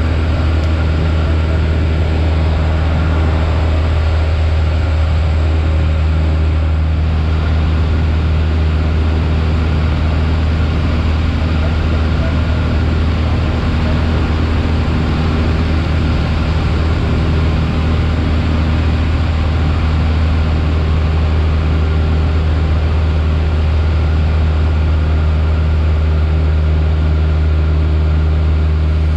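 Piper Warrior's four-cylinder piston engine and propeller droning steadily inside the cockpit, a loud, even low hum with a wash of cabin noise over it.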